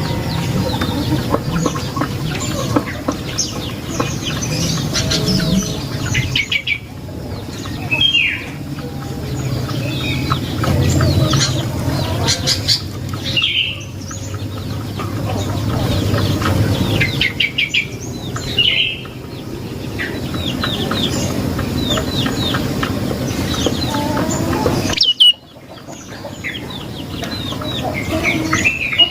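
Prenjak lumut songbird calling in repeated bouts of rapid, sharp ticking trills mixed with short rising chirps, over a steady low background rumble. The calls break off sharply for a moment a few times.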